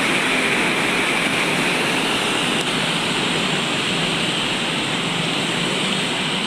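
Steady rushing hiss of road traffic on a wet road in drizzle, with a faint low engine hum beneath it.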